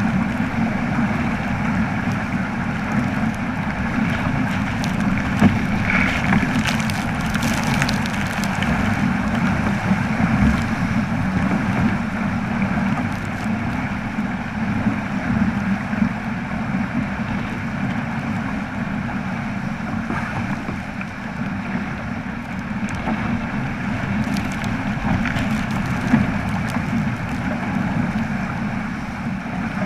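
Steady rushing noise of wind and water on a sailing boat, with a low steady drone underneath and a few faint clicks.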